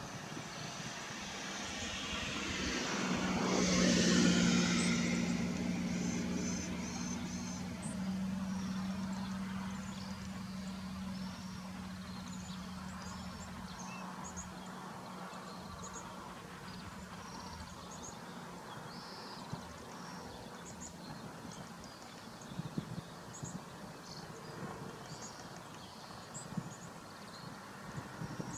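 A motor vehicle passing, its engine hum swelling to a peak a few seconds in and then fading away. Short, high bird chirps follow here and there.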